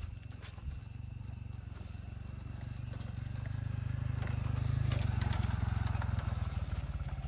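Small motorbike engine running with a fast, even low pulse, getting louder up to about five seconds in and then easing off slightly.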